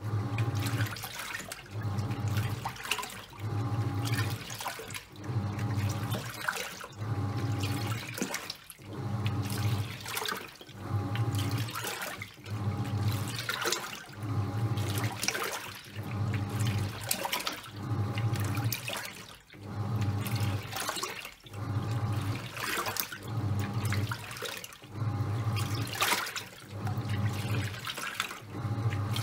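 Top-loading washing machine agitating a load of towels: the drive motor hums in regular pulses about every one and a half seconds as the pulsator swings back and forth, with water sloshing and churning throughout.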